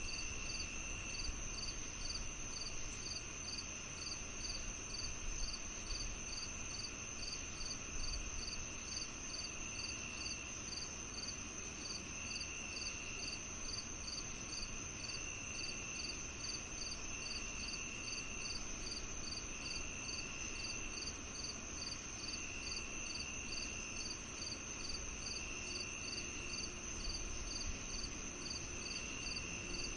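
Crickets and other insects of a summer evening chorus, several kinds at once: one holds a steady high trill, another chirps at a regular pulse a little more than once a second, and a lower trill comes in bursts of about a second every two to three seconds.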